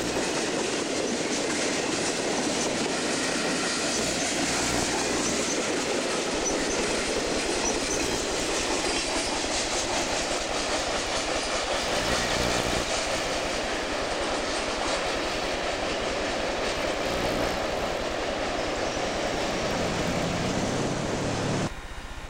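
CSX freight train cars rolling past, wheels clicking over the rail joints with a light wheel squeal. The sound cuts off abruptly near the end.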